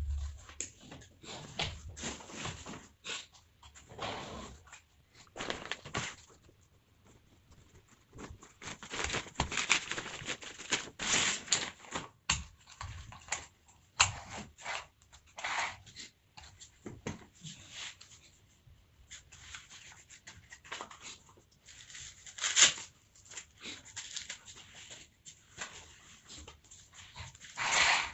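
Folding camp chair being handled: fabric rustling and frame scrapes in irregular bursts.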